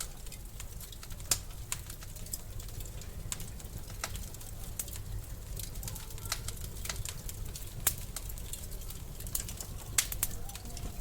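Wood fire in a fireplace crackling: a steady low rumble of burning with sharp, irregular pops and snaps scattered throughout. The loudest pops come about a second in and near the end.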